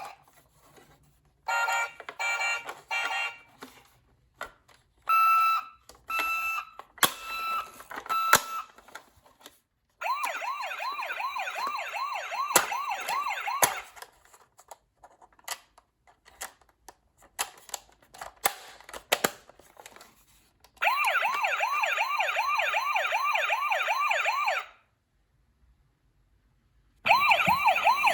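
Electronic siren from a toy ambulance's sound module: a fast warbling wail plays in three bursts of a few seconds each, with short beeps and sharp clicks in the first several seconds as the sound buttons are pressed.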